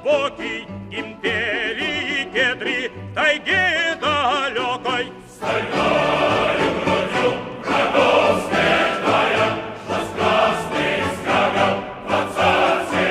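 A Russian-language song with orchestral accompaniment. A singer's voice with strong vibrato leads, and about five seconds in the music swells into a fuller, denser passage.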